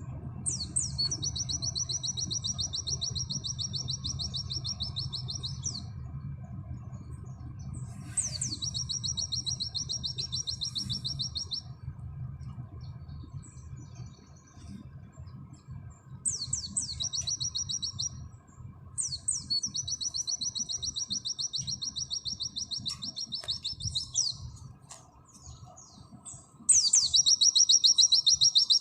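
Pleci (white-eye) singing its 'nembak' song: long, very fast, even trills, each opening with a quick upward sweep. There are five phrases of about two to five seconds with short pauses between them, and the last is the loudest. A steady low hum runs underneath.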